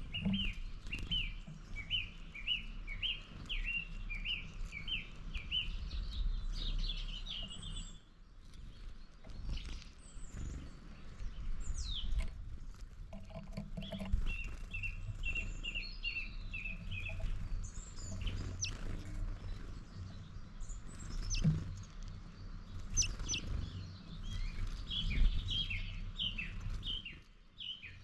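Small birds calling and singing: quick runs of repeated high chirps, with scattered single sharp notes between them, over a low steady rumble.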